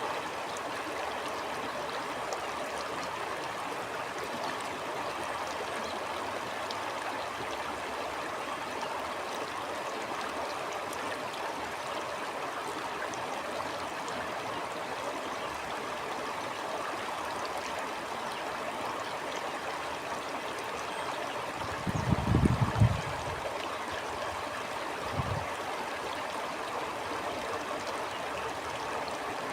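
Stream of water flowing steadily over rocks, an even rushing and trickling. About two-thirds of the way through, a brief low rumble rises louder than the water, and a shorter one follows a few seconds later.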